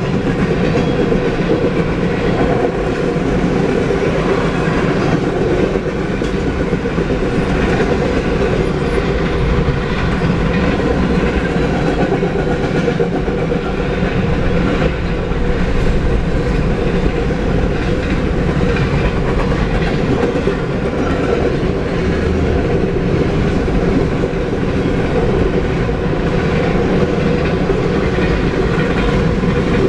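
Freight cars rolling past: a loud, steady rumble of steel wheels on rail with the clickety-clack of wheels over the rail joints.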